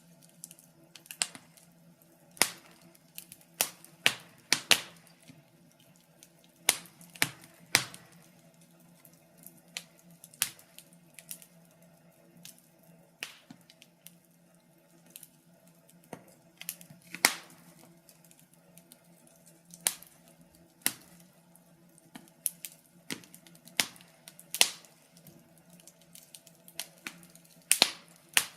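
Wood fire in a fireplace crackling and popping: irregular sharp snaps, a loud one every second or so with smaller crackles between, over a faint steady low hum.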